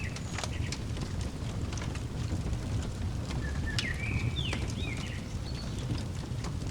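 Wood fire crackling with scattered sharp pops over a steady low rumble, while a bird gives a few short gliding chirps about three to five seconds in.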